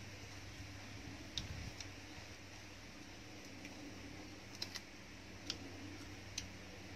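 Chewing sounds of a person eating chicken: a few short, sharp mouth clicks and lip smacks, spaced irregularly, over a faint steady low hum.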